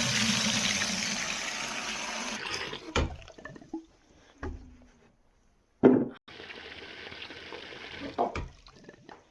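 Water gushing from a farm hydrant into a bucket for about two and a half seconds, then cut off, followed by a sharp knock. A second, quieter run of water flows for about two seconds later on, with knocks as the bucket is handled.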